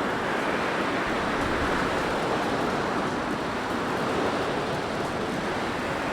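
Blizzard wind blowing steadily, a dense rushing hiss.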